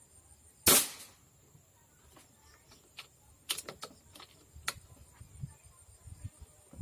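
A single rifle shot, one sharp crack that dies away within half a second. A few seconds later comes a quick series of sharp metallic clicks as the action is cycled to feed the next round from the 20-round magazine.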